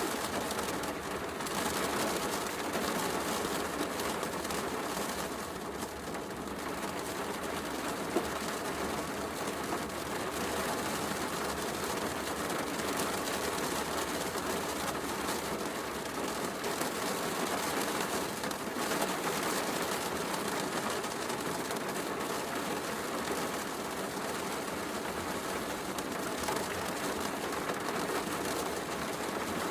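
Heavy rain falling steadily, mixed with the crackle of a wood fire in a fireplace, with one sharper pop about eight seconds in.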